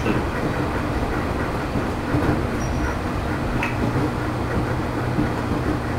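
JR East 211 series electric train running, heard aboard motor car MoHa 211-1: a steady hum and rumble from its externally-ventilated traction motors and wheels on the rails. A short click about three and a half seconds in.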